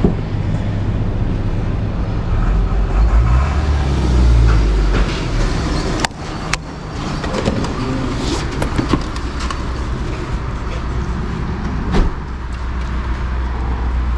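A motor vehicle's engine running with a steady low rumble that swells for a couple of seconds and then dips. A few sharp clicks come in the middle and near the end.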